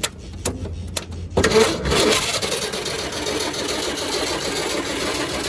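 An old Ford F-Series truck engine cranking on its starter motor, kicking in suddenly about a second and a half in and running on steadily without catching. The mechanical fuel pump is not drawing fuel while it cranks, typical of a pump diaphragm that has worn out.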